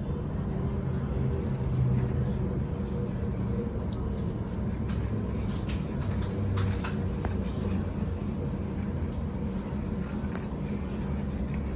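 Class 345 Elizabeth line electric train standing at the platform, a steady low electrical hum with a few faint clicks.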